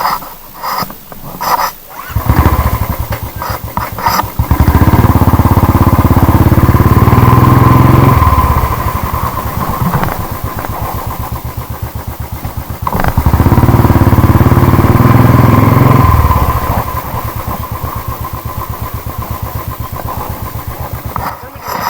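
Royal Enfield Thunderbird 350 single-cylinder engine starting about two seconds in, then revved up twice and settling to an even idle between and after the revs.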